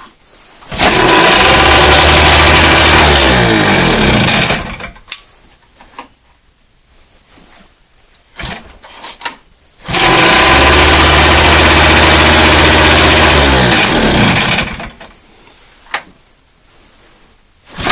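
Volvo Penta Model 39 air-cooled two-stroke outboard starting cold on choke: twice it fires and runs for about four seconds, then slows and dies, its pitch falling away.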